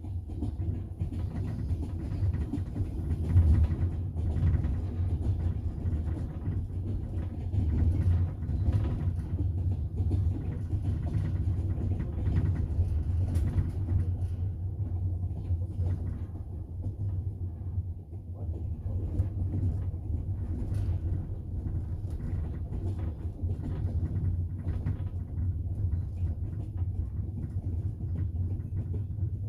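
Double-decker passenger train running, heard from inside the carriage: a steady low rumble with irregular clacks and knocks from the wheels and carriage.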